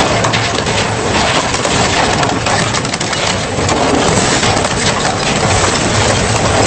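Industrial double-shaft shredder crushing and tearing scrap, a steady loud grinding din full of cracks and snaps as material breaks between the shafts.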